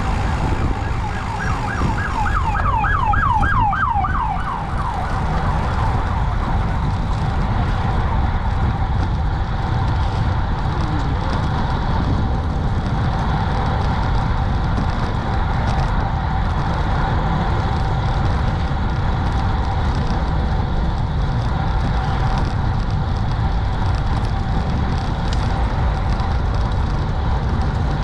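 Emergency vehicle siren in a fast yelp, sweeping up and down about four times a second for a few seconds, then fading into a steady rumble of wind on the microphone.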